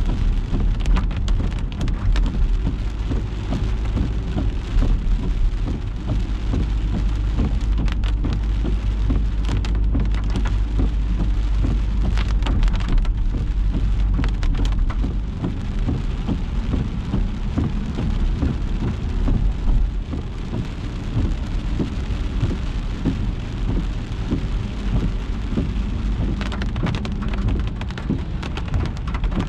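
Rain striking a moving car in a dense, steady stream of small drop hits, over a strong, steady low rumble from the car and its tyres on the wet road.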